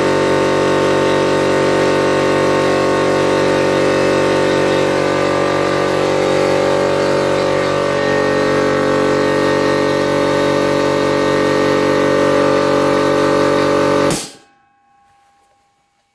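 A 50-litre air compressor's pump motor running steadily and loudly, then stopping abruptly about fourteen seconds in.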